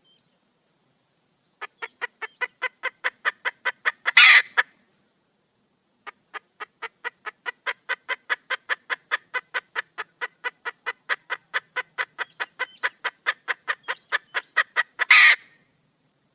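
Wild junglefowl hen calling for a mate: two runs of quick, even clucks, about four or five a second and growing louder, each ending in one loud, drawn-out call. The second run is much longer than the first.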